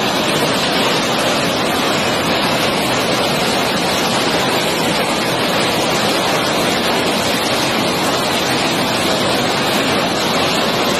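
Water pouring through a dam's spillway in a loud, steady rush.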